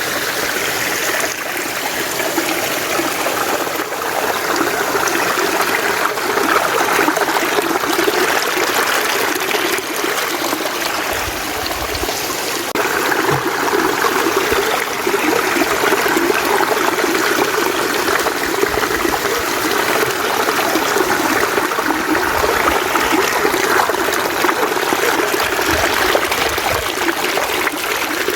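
A mountain stream flowing in a steady rush of water, with a few brief low rumbles.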